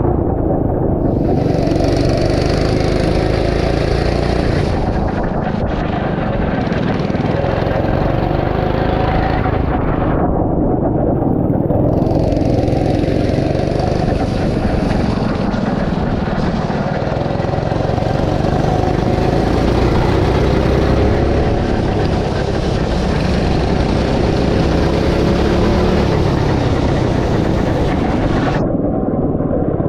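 Small go-kart engine running under throttle, its pitch rising and falling again and again as the driver accelerates and lifts. A steady rushing noise runs under it.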